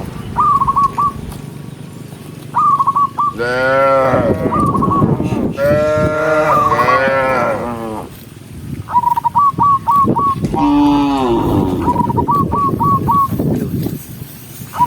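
Cattle mooing: three long calls that rise and fall in pitch, about three and a half, six and eleven seconds in. A short run of four or five high notes repeats about every two seconds between them.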